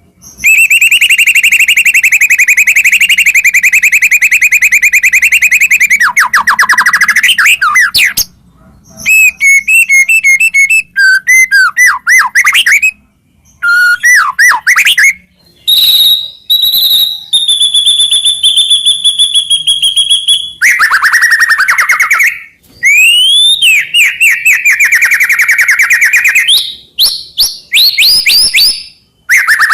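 White-rumped shama singing loudly in varied phrases: a long rapid trill lasting several seconds, then bouncing repeated notes, clear held whistles and swooping notes, with short pauses between phrases.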